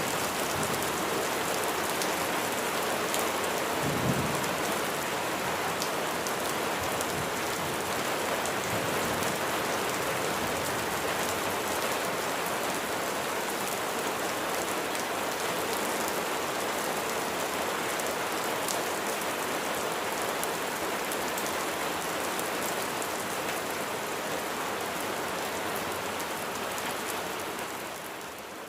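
Steady rain pattering densely on surfaces, with a brief low rumble of thunder about four seconds in. The rain fades down near the end.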